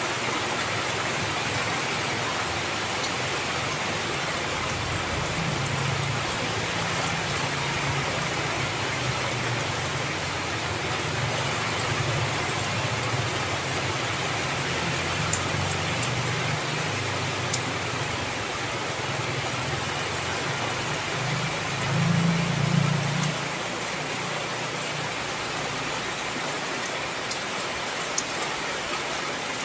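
Heavy rain falling steadily, with a few sharp drop ticks. A low rumble comes in a few seconds in and swells to its loudest about three-quarters of the way through, then fades.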